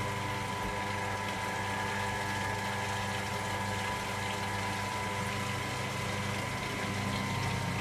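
Electra AWF683 washing machine's pump running with a steady hum.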